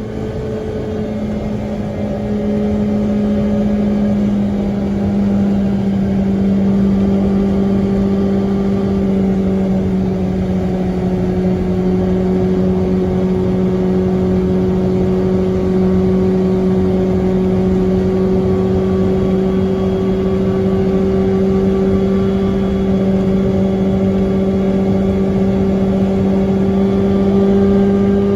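Classic Fiat 500's air-cooled two-cylinder engine pulling the car along at a steady engine speed, heard through a homemade RPM-style exhaust. It grows a little louder about three seconds in and then holds an even drone.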